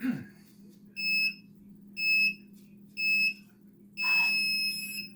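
Workout interval timer counting down: three short beeps a second apart, then one longer beep marking the start of the interval.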